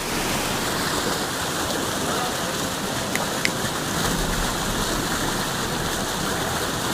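Rushing white water of a river rapid, a steady even noise, with two faint clicks about three seconds in.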